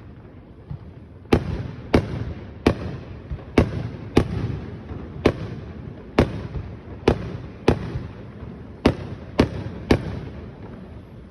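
Aerial fireworks shells bursting, a dozen sharp booms roughly every half second to second, each trailing off in a short rumble, after a quiet first second.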